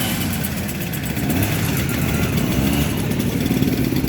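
Vintage motorcycle engine running with a steady, fast exhaust beat.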